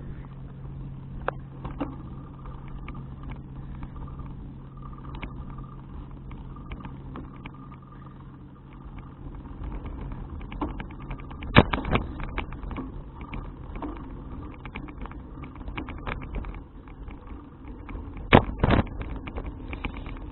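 Folding bicycle rattling and clicking as it is ridden over the road, with two hard jolts, one about midway and one near the end. A steady low engine hum fades out during the first half.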